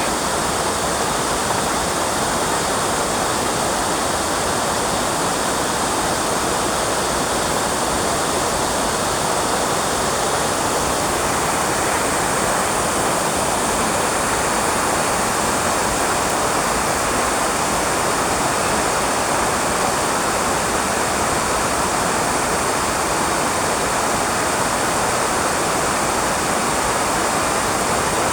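Steady, loud rushing noise that does not change.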